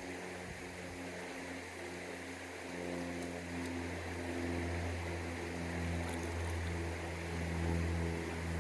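Stream water rushing steadily, with a steady low droning hum underneath.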